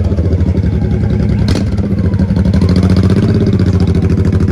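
A motorcycle engine running close by, loud and steady in a fast, even pulse, lifting slightly in pitch about three seconds in.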